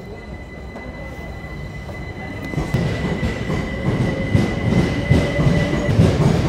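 Class 387 electric multiple unit running past close by along the platform, with a steady high whine that stops about six seconds in. About two and a half seconds in, the wheels' rumble and clatter grow louder as the carriages go by.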